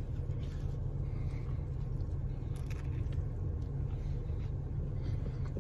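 Steady low rumble inside a car cabin, with faint chewing as a sandwich is bitten and eaten.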